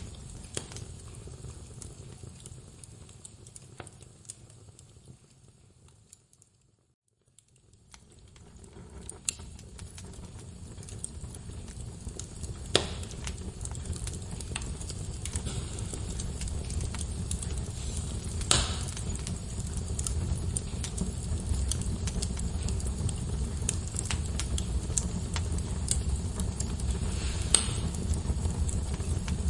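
Wood fire burning in a fireplace: a steady low rumble of flames with scattered crackles and a few sharp pops of the burning logs. The sound fades out to near silence about six seconds in, then fades back up over the next several seconds.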